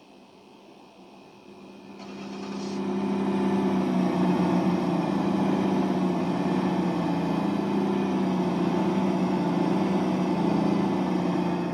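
CrossCountry Class 220/221 Voyager diesel multiple units going through the station, their underfloor diesel engines droning steadily. The sound swells up about two seconds in and stays loud.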